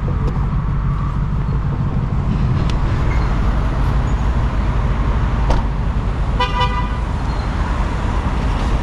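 Ford Mustang GT's 5.0-litre V8 and tyres running at a steady cruise with a low rumble. A car horn toots once, briefly, about six and a half seconds in.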